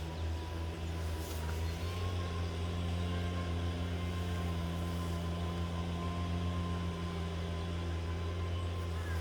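An engine running steadily with a low drone and a faint high whine above it.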